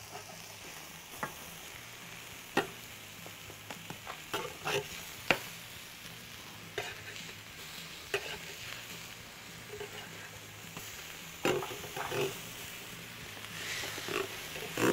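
Kofta patties sizzling on a hot ridged grill pan, a steady frying hiss with scattered sharp clicks and taps as they are handled and turned.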